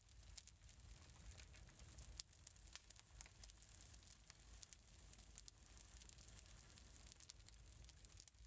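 Faint, irregular crackling and popping of a wood fire over a low, steady rumble.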